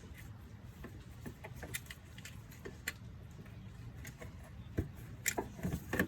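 Scattered small metallic clicks and scrapes of a flathead screwdriver prying at a crankshaft position sensor held tight in its bore by an O-ring, with louder taps near the end.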